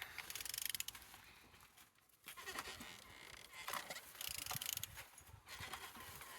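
Engine being turned over by hand with a wrench on the crankshaft: bursts of rapid clicking and rasping as it rotates, a sign that the engine turns freely and is not seized.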